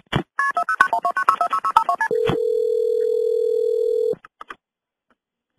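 Telephone keypad touch tones dialing a number in a quick run of short beeps, then a steady telephone tone that holds for about two seconds and stops, heard on the recorded phone line.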